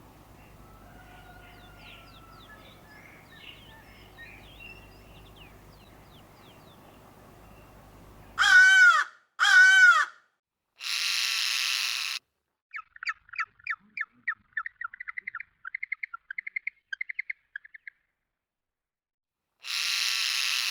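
Faint birdsong, then loud single bird calls against silence: two short arching calls, a harsh caw, a quick run of short chirping notes lasting about five seconds, and another harsh caw near the end.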